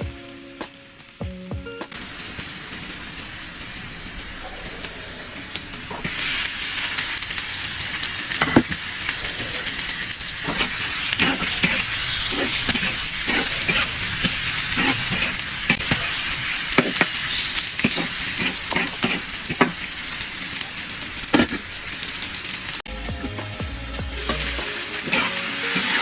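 Curry frying and sizzling in a pan, stirred with a spoon that clicks and scrapes against the pan. The sizzle gets much louder about six seconds in.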